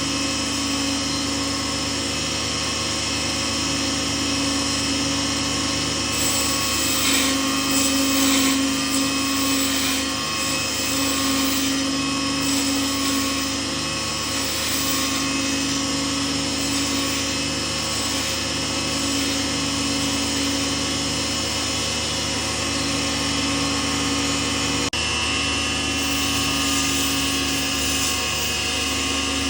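Small lathe running steadily, its motor humming with a constant pitch while turning a pen blank.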